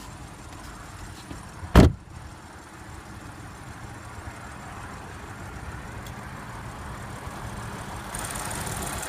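Audi Q7 3.0T's supercharged V6 idling steadily, with one sharp clunk about two seconds in as the hood is released; the engine sound grows louder toward the end as the hood opens.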